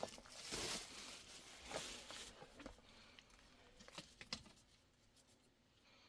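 Soft rustling and a few light clicks of handling, busiest in the first two seconds, with a couple more near four seconds in, then nearly quiet.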